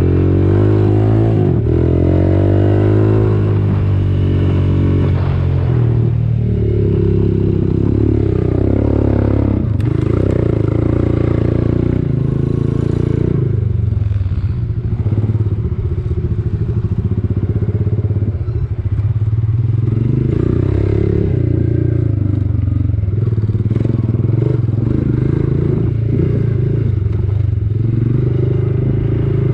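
Quad bike (ATV) engine running steadily while riding, its pitch rising and falling with the throttle.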